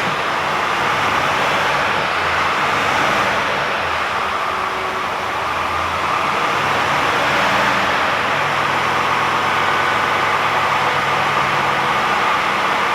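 DAF XF480 truck's PACCAR MX-13 six-cylinder diesel engine idling steadily, with a broad whooshing running noise over the low engine tone.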